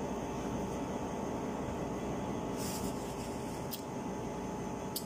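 A person chewing fried chicken, with a few short crisp crunches, over a steady background hum.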